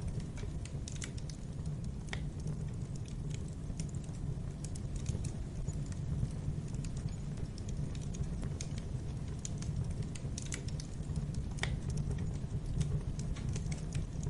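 Wood fire in a fireplace crackling, with irregular sharp pops and snaps over a steady low rumble of the flames; a couple of louder pops stand out, one about two seconds in and one near the end.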